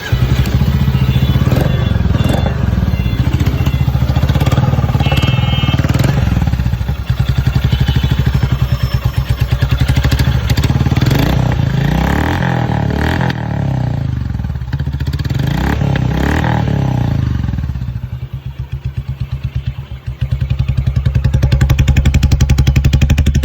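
Royal Enfield motorcycle engine with about 6000 km on it, catching on the electric starter right at the start and running. It is revved up twice in the middle, drops to a slower, pulsing idle, then runs steadily again near the end.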